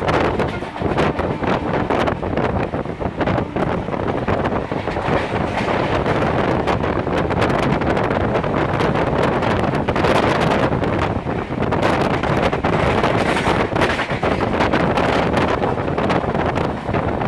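Wind buffeting the microphone over the running noise of Indian Railways superfast express 12685 at speed, recorded from the side of a coach, with many sharp wheel clicks as it runs over rail joints and points through a station without stopping.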